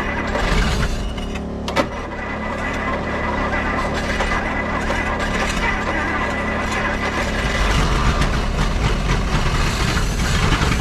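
Old 1955 Willys station wagon engine being cranked over and firing raggedly. About seven and a half seconds in it runs heavier and louder.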